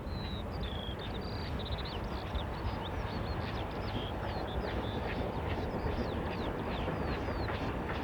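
Several songbirds singing, with many short chirps, whistled notes and quick trills, over a steady low background noise.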